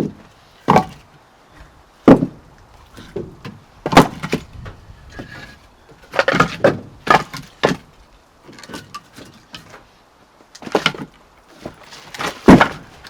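Irregular wooden knocks and clunks of split firewood being handled and set down, with a quick cluster of knocks midway and the loudest one near the end.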